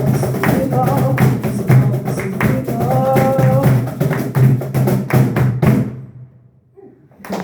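Live music with a fast, dense percussion rhythm under a few held melody notes, stopping about six seconds in. After a short pause, applause begins right at the end.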